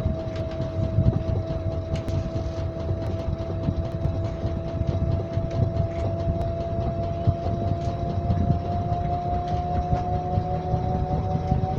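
Washing machine running: a steady motor whine that slowly rises in pitch over a low rumble.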